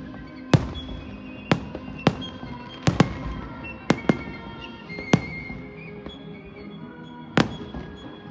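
Aerial fireworks bursting: about nine sharp bangs at uneven intervals, some in quick pairs, over music with held notes.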